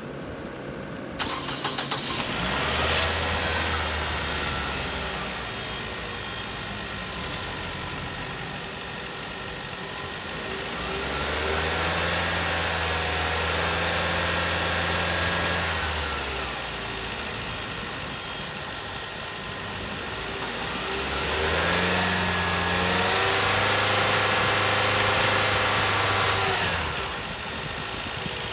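Nissan engine cranked and started about a second in, then run up to higher revs three times, each time held for a few seconds before dropping back to idle.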